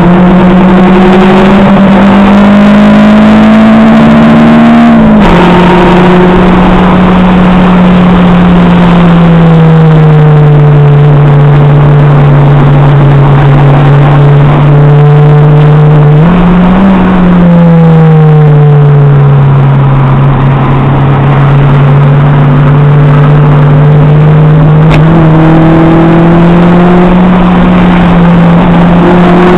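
Acura RSX Type-S's K20A2 four-cylinder engine at track pace, heard from inside the cabin. The revs climb for about five seconds and drop sharply at an upshift. They then fall away slowly for around ten seconds, with a brief rise and fall a little past the middle, and climb steadily again over the last ten seconds.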